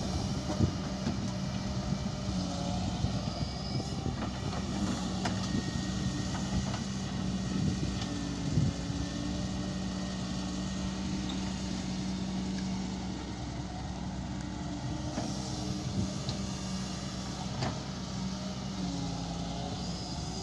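Doosan excavator's diesel engine running under load with a steady hum that wavers in pitch, and a few sharp knocks from the machine working.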